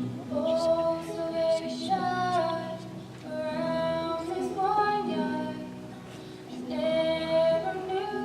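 A young female voice singing a slow song in long held phrases, over steady instrumental accompaniment.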